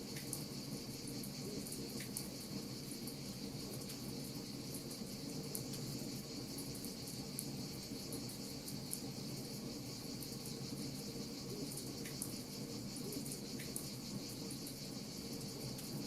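Crickets chirping in a steady high trill over a wood fire crackling with scattered sharp pops, and a low steady rumble underneath.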